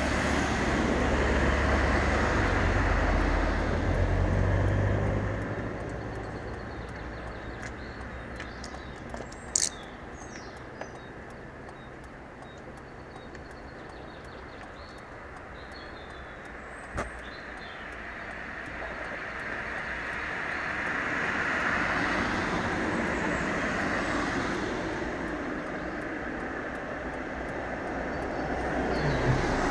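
A vehicle driving along a road, with engine and tyre noise. It is loud for the first five seconds, eases off, then builds again about two-thirds of the way through, with a couple of sharp clicks in the quieter middle part.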